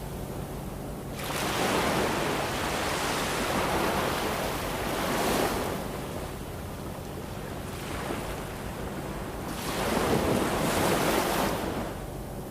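Ocean surf: a wave breaks and washes in about a second in, a smaller surge follows, and a second big wave breaks about ten seconds in, with a steady wash of surf between.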